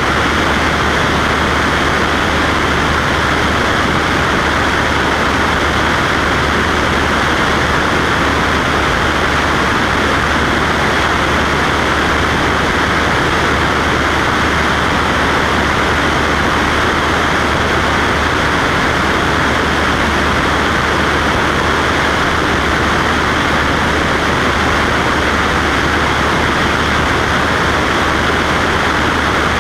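Cessna Skywagon's engine and propeller running steadily in flight: an even, loud drone with a constant low hum underneath.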